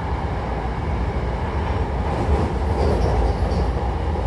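Hankyu commuter train running, heard from inside the car: a steady rumble of wheels and running gear. A few faint high squeaks come about three seconds in, and the noise grows slightly louder toward the end.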